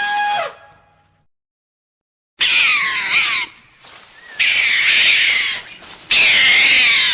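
An animal call that dies away in the first second, a short silence, then loud, shrill animal cries, repeated with short breaks.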